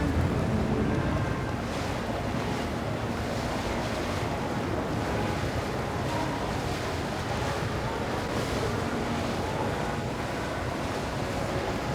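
Water wash and a motorboat's engine rumble, with wind buffeting the microphone; a little louder for the first second or so.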